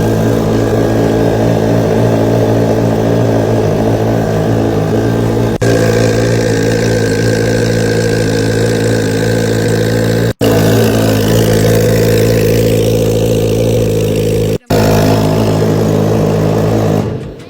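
Turbocharged R6 engine running on E85, idling steadily at a constant pitch just after a cold start, broken by a few momentary dropouts and fading away near the end.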